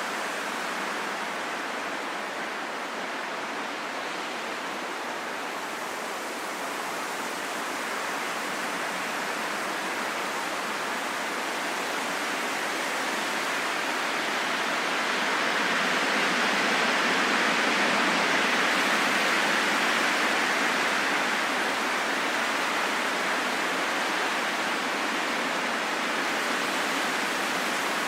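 Steady rain falling in a forest, an even hiss that swells a little about halfway through.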